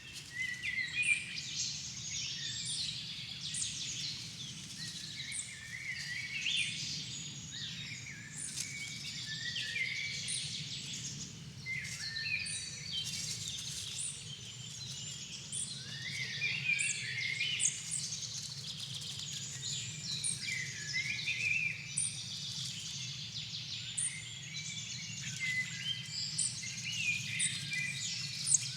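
Dusk chorus of many songbirds singing at once in a floodplain forest, with overlapping chirps, trills and warbled phrases, over a steady low rumble.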